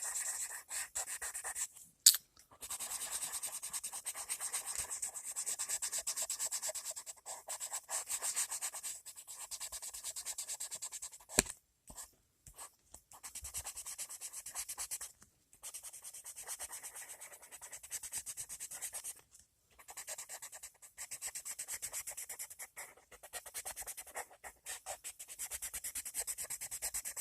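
Colored pencil shading on paper: fast back-and-forth strokes of scratchy hiss in runs of a few seconds, with short pauses between runs and a couple of sharp taps.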